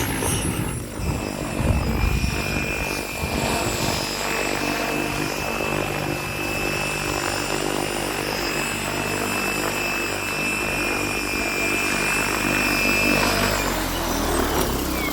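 XL Power 550 electric RC helicopter flying, its rotor noise and a steady high motor-and-gear whine holding even. The whine drops out about a second and a half before the end.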